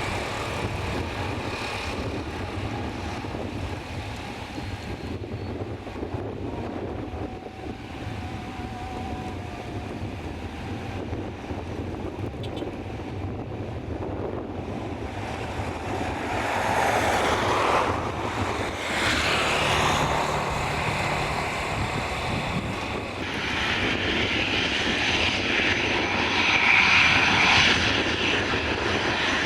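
Airliner engines running as the aircraft passes near the runway: a steady rumble that swells louder in the second half, loudest near the end.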